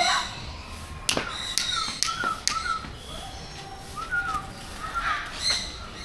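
Short chirping calls of aviary birds, each note rising and falling, repeated every half second or so, with a few sharp clicks in the first couple of seconds.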